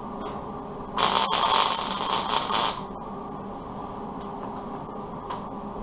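A short MIG weld on truck fender sheet metal: about two seconds of steady crackling hiss that starts and stops abruptly, over the steady hum of the welding machine.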